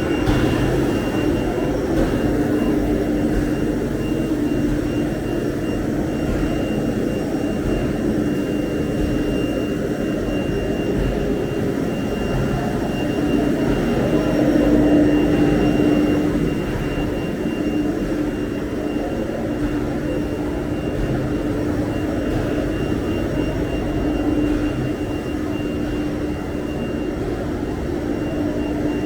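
Workshop machinery running steadily: a loud, even rushing noise with a faint high whine held throughout and a low hum that swells and fades.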